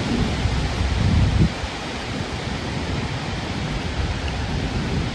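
Strong squall-line wind blowing hard over the microphone: a steady rushing noise with a harder gust about a second in.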